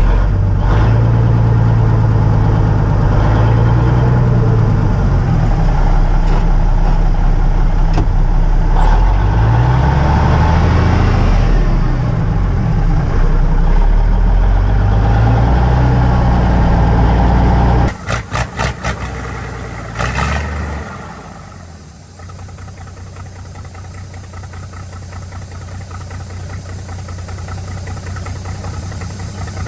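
Cummins diesel engine of an old dump truck running loud, its pitch rising and falling as it is revved. About two-thirds of the way through, the sound breaks off into a few quick pulses and drops away, leaving a quieter steady engine sound that slowly grows louder.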